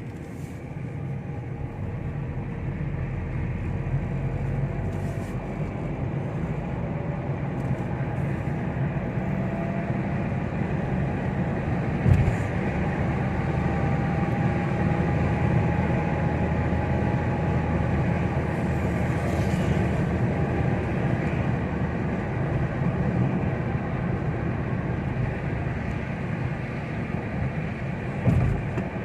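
A car driving on the road: steady engine and tyre rumble, with a brief knock about twelve seconds in.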